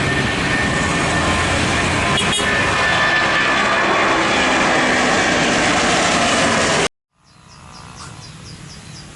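Loud, steady jet airliner engine noise that cuts off abruptly about two-thirds of the way through. It gives way to a much quieter background with a quick run of high ticks near the end.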